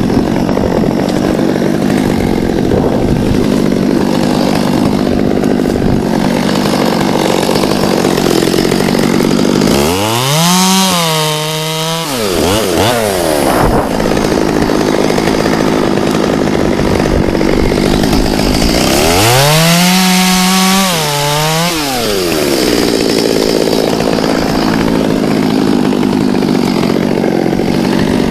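Two-stroke chainsaw running steadily and cutting wood. Twice, about ten seconds in and again about twenty seconds in, its pitch climbs to a high rev, holds for a couple of seconds, then drops back.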